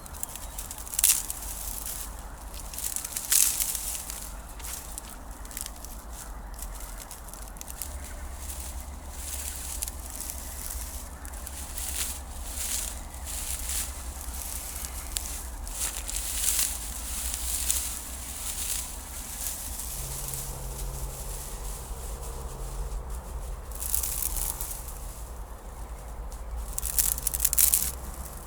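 Dry grass and twigs rustling and crackling as they are handled and laid for campfire kindling, with louder crackles about a second in, a few seconds in and near the end. A steady low wind rumble runs underneath.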